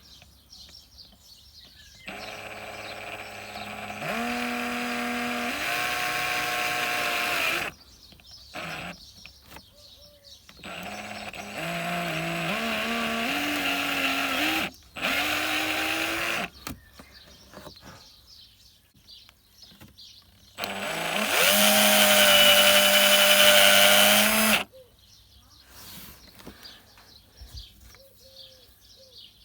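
Electric drill run three times in bursts of a few seconds, each spinning up with a rising whine and changing speed in steps, the last burst the loudest, while drilling out the threaded hole of a small gas-strut end fitting to take a larger thread.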